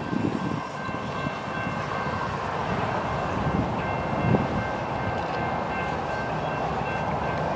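Union Pacific freight train's diesel locomotives running as the train moves slowly forward, a steady rumble of engines and rolling cars with a faint high whine held throughout.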